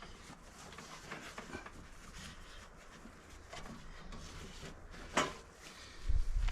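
Hand tools and parts on a ride-on lawnmower clinking and knocking irregularly during repair work, with one sharper knock about five seconds in. A low rumble begins near the end.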